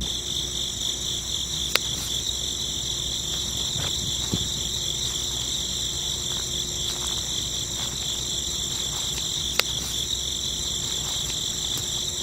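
Steady, high, fast-pulsing chirring of crickets, with a couple of faint clicks.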